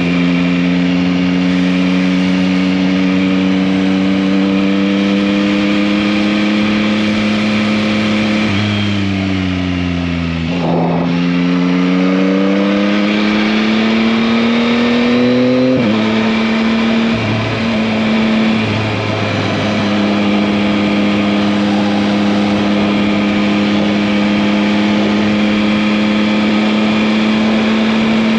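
Yamaha MT-09's 890 cc inline three-cylinder engine running under way at steady revs. About a third of the way in the engine pitch sags as the throttle eases, then climbs again. Just past halfway the pitch drops sharply, and the engine then settles into a steady cruise.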